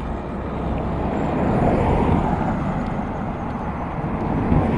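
Car running, with a steady rumble of engine and road noise.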